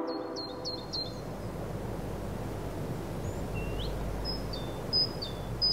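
Outdoor ambience: a steady low rumble with a small bird chirping over it. First comes a quick run of four short chirps, then, in the second half, a string of two-note chirps, each a high note dropping to a lower one.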